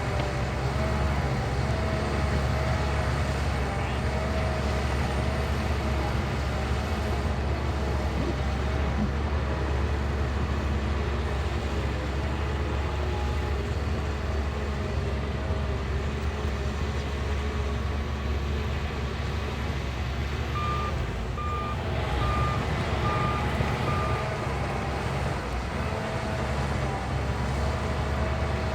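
Shantui bulldozer's diesel engine running steadily with a low drone. Near the end a reversing alarm beeps five times in quick succession.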